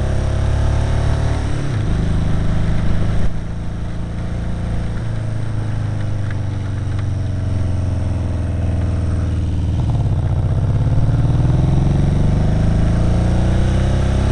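Kawasaki KZ750 motorcycle engine running under way: the revs fall about two seconds in, the throttle eases off about three seconds in, then the engine pulls up through the revs with a steadily rising pitch near the end.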